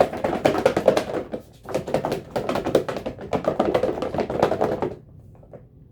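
Rapid rattling clatter of many small clicks in two runs, with a short break about one and a half seconds in, stopping about five seconds in.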